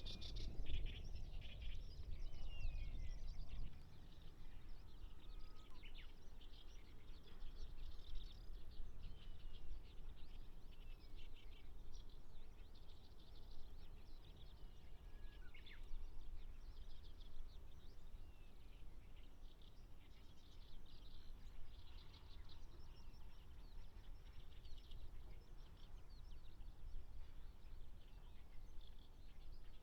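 Small wild birds chirping and calling, with a few short gliding notes among the chirps. A low rumble under them is heaviest for the first three or four seconds.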